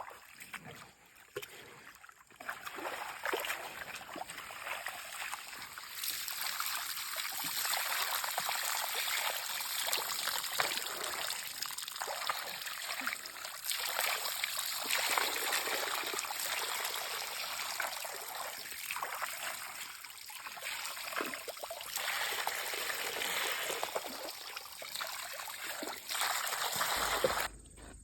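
Water trickling and splashing in a steady rush that grows louder about six seconds in and cuts off suddenly near the end.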